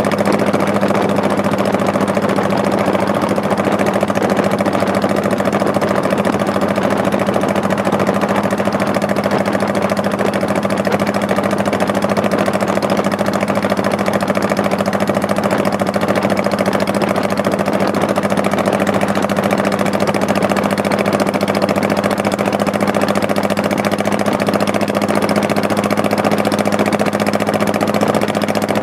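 Honda Shadow Spirit 1100's V-twin engine running at a steady, unchanging pitch as the motorcycle rides along.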